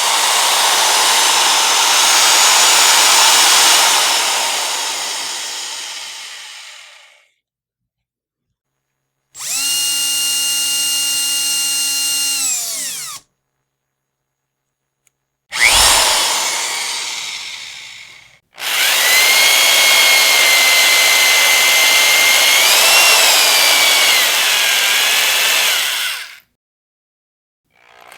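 Electric power drill run in four separate bursts with silences between. A noisy burst fades out, then a steady motor whine winds down in pitch as it stops, then a short burst, then a long run whose pitch wobbles and dips near its end.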